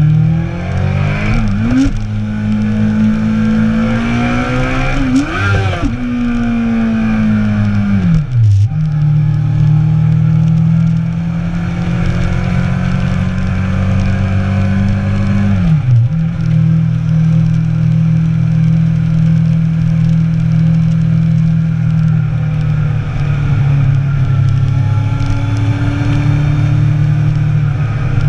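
Sport motorcycle engine running at steady cruising revs, with wind rush. The revs flick up and down a couple of times early on, then dip sharply and pick up again about eight and sixteen seconds in.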